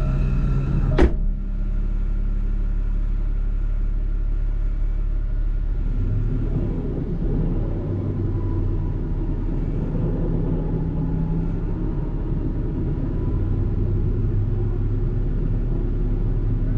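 Land Rover Discovery 4 engine idling steadily close under the camera on its bonnet, with a rumbling noise over it and one sharp click about a second in.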